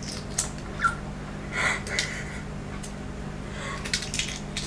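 Close-miked chewing with the mouth closed: soft, irregular clicks and smacks over a steady low hum.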